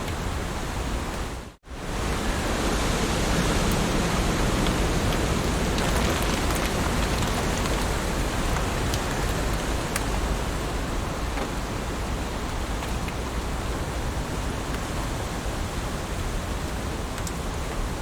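Heavy rain falling, a steady dense hiss with scattered individual drop ticks. About a second and a half in, it cuts out for an instant and comes straight back.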